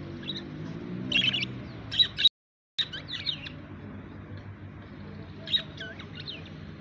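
Small colourful birds chirping in short clusters of high, quick chirps, over a low steady hum. The sound cuts out completely for about half a second a little over two seconds in.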